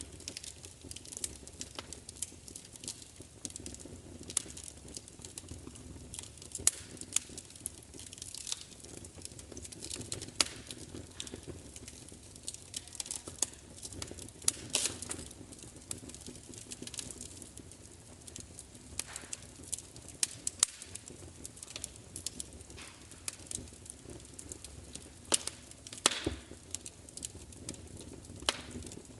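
Wood fire crackling: irregular sharp pops and snaps, some much louder than others, over a low steady rumble of burning.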